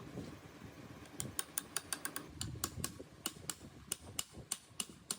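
A quick run of sharp clicks or taps, about four or five a second and slightly uneven, starting about a second in.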